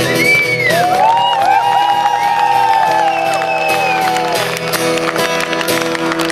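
Audience applauding and cheering at the end of a song. Several voices call out in long gliding cheers for the first four seconds or so. Steady held notes from the music ring on underneath.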